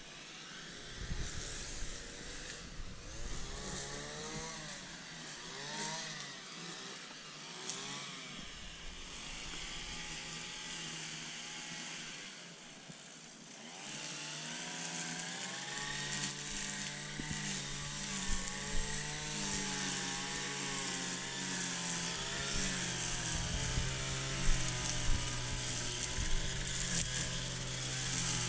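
Small petrol engine of a lawnmower running, its pitch rising and falling as it revs up and down. It grows louder and steadier about halfway through.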